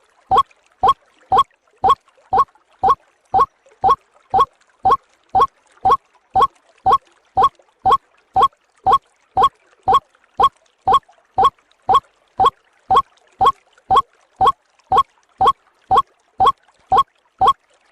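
White-breasted waterhen (ruak-ruak) calls played as a bird lure: a short, hooked 'ruak' note repeated steadily, about two a second.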